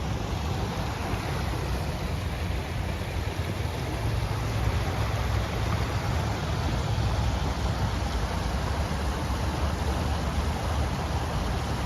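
River water rushing steadily, with a heavy low rumble underneath.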